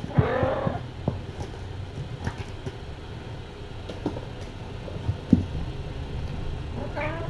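A kitten meows briefly just after the start and again near the end, over a steady low rumble with scattered small knocks and clicks.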